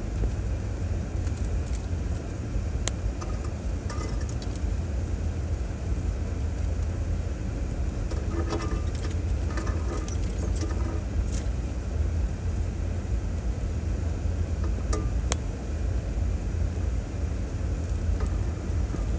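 A 2006 Chevrolet Trailblazer SUV driving along a trail: a steady low rumble, with scattered light clicks and rattles and a few brief squeaks about halfway through.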